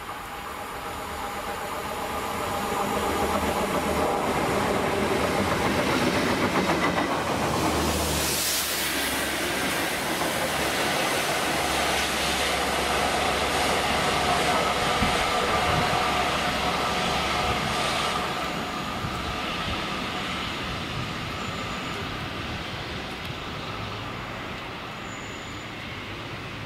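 Class 66 diesel locomotive hauling a freight train of tank wagons past at speed. Its engine and wheel noise builds to a sharp peak about eight seconds in as it passes, then the wagons roll by and the sound fades near the end.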